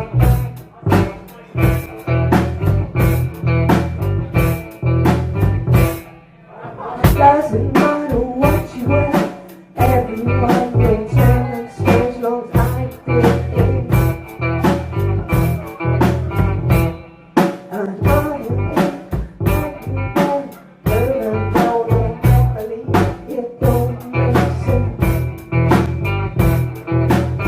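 Live band playing on electric guitar, bass and drum kit, with a steady beat that drops out briefly a few times.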